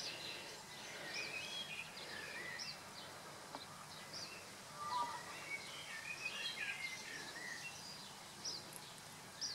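Faint background of small birds chirping: many short, scattered high notes, some rising and some falling, over a low steady hiss.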